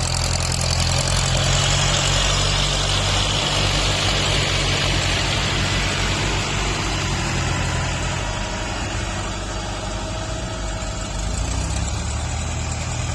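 Tractor's diesel engine running steadily under load while grading soil, easing off a little in the second half and picking up again briefly near the end.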